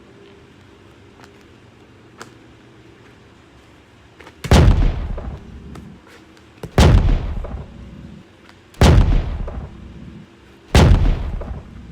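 Four heavy sledgehammer blows about two seconds apart, each a loud deep impact that dies away over about a second.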